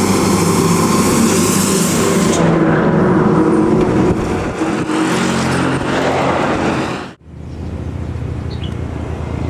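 Large intercity bus driving past close by at speed, engine and tyre noise loud. About seven seconds in, the sound cuts abruptly to a steadier, quieter engine hum.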